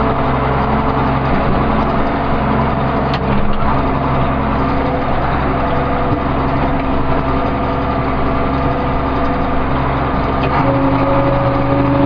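Case 2290 tractor's turbocharged six-cylinder diesel engine running steadily, with a sharp click about three seconds in. Near the end the engine speeds up slightly and its pitch rises.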